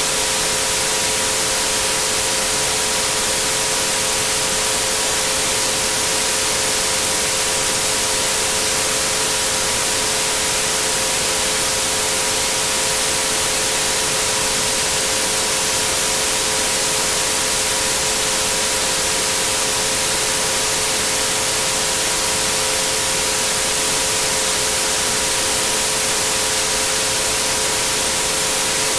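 Synthetic white noise, a steady even hiss, with three pure steady tones held underneath at 432, 528 and 963 Hz.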